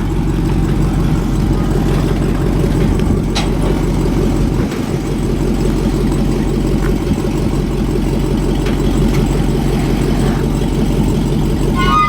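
A car engine running steadily, with road noise, as a vehicle drives along.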